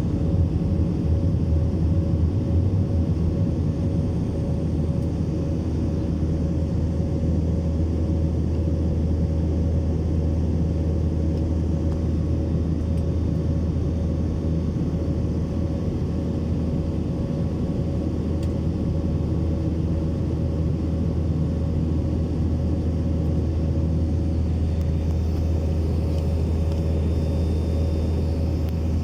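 Steady low drone of a jet airliner's engines in flight, unchanging throughout, with a faint constant hum above the rumble.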